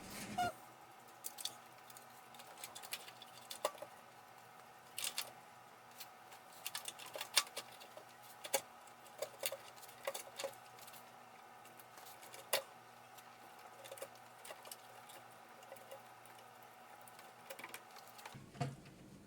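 Scattered light clicks and taps of hand tools and metal parts being handled and set in place, irregular and spread throughout, over a faint steady hum.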